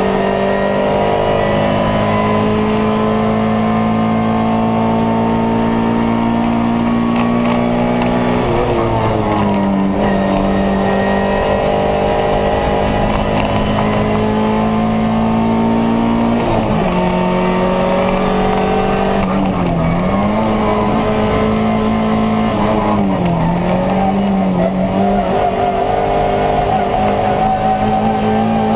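Alfa Romeo 146 2.0 Twin Spark four-cylinder engine running hard at high revs, heard from inside the race car's cabin. Its pitch holds nearly steady, drops about a third of the way in, climbs back about halfway, and dips briefly twice later.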